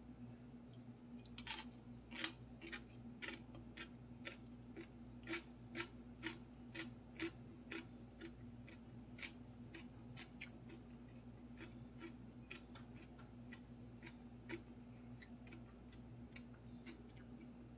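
Close-up chewing of a mouthful of fried rice with the mouth closed: soft, moist mouth clicks at about two to three a second, clearest in the first half and weaker later. A steady low hum runs underneath.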